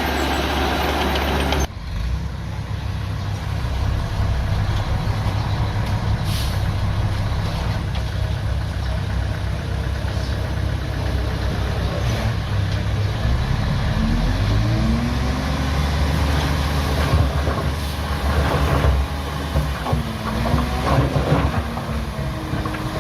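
Bulldozer's diesel engine running heavily as it pushes earth. Squeals that bend up and down in pitch come in twice in the second half.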